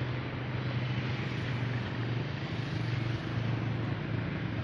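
Steady engine noise: a low hum under an even rushing sound, holding level throughout.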